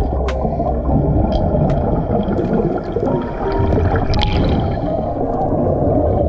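Water gurgling and bubbling in a loud, continuous churn, with scattered clicks.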